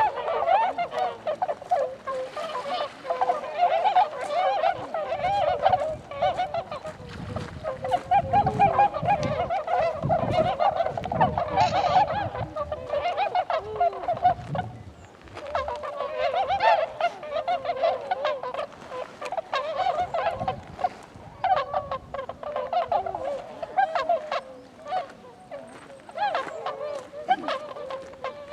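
A flock of tundra swans (Bewick's swans) calling, many honking calls overlapping in a continuous chorus, with a brief lull about halfway through.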